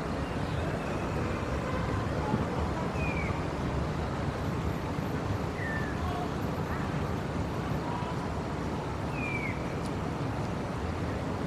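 Street ambience: a steady rumble of traffic, with faint voices in the background. Three short falling chirps sound about 3, 6 and 9 seconds in.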